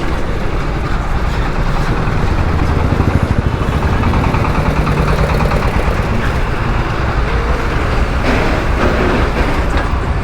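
KTM RC 125's single-cylinder engine running under way through traffic, with road and wind noise.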